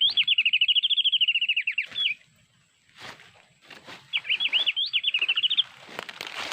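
White-eye (pleci) song: two bursts of rapid, repeated high chirping notes, the first lasting about two seconds and the second about a second and a half, with faint clicks between and a rustle near the end.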